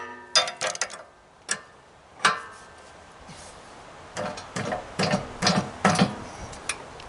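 Hand tools clicking and knocking on the metal parts of an air compressor being taken apart. The knocks come irregularly: a few in the first second, then a looser run from about four seconds in.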